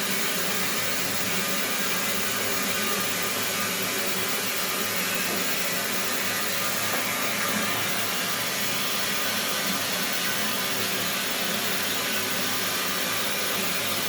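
A small motor running steadily: an even whirring rush with a low hum, unchanging throughout.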